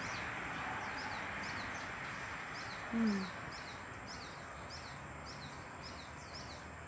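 A bird chirping over a steady background hiss: a long run of short, high, down-slurred notes, two or three a second. About three seconds in, a brief falling 'mm' from a person's voice.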